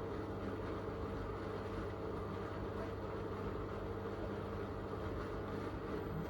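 Miele W3985 front-loading washing machine spinning its drum after the second rinse: a steady motor and drum hum at an even speed.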